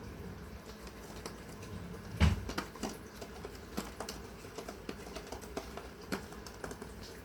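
A hand patting a cat's rump: irregular soft taps and clicks, with one much louder thump about two seconds in.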